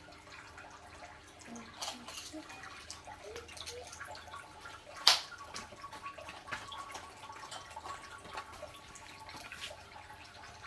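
Scattered light clicks and taps from children handling plastic toy-kitchen pieces, with one sharp click about five seconds in. A faint steady tone runs for a few seconds after it.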